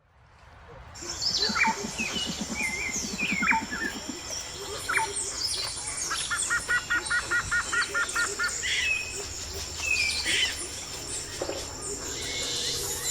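Wild birds singing and calling in woodland, fading in from silence at the start: many short chirps and whistled sweeps from several birds, with one bird giving a quick run of about a dozen even notes midway.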